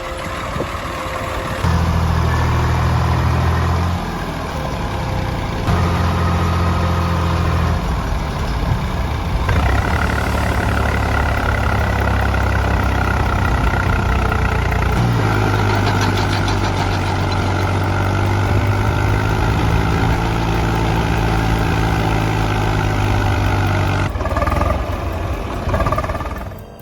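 Tractor diesel engine running hard under load, its pitch stepping up and down several times. A steady higher whine runs alongside it through the middle.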